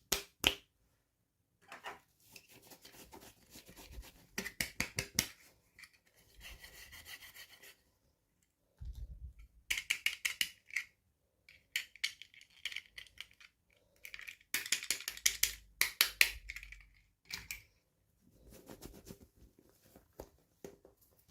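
Hands unboxing toys: bursts of scratching, rubbing and quick clicks from packaging being handled, with short pauses between.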